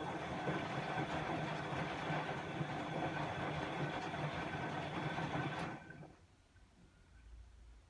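Bosch WAE24162GB03 washing machine running during its rinse-and-spin cycle: a steady low hum under a wash of noise that stops suddenly about six seconds in, leaving only faint ticking.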